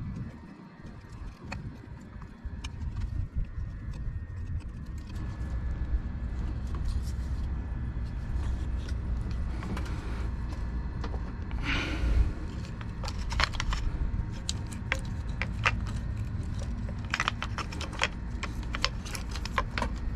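Needle-nose pliers clicking and clinking against the terminal lug nuts of a semi-hermetic compressor. The sharp metal ticks are scattered, then come more often in the second half, over a steady low rumble.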